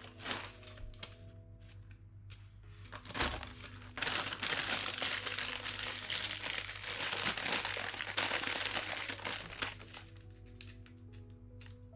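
Plastic packaging crinkling and rustling as it is handled, in a few short bursts and then steadily for about six seconds from around four seconds in. Soft background music plays under it.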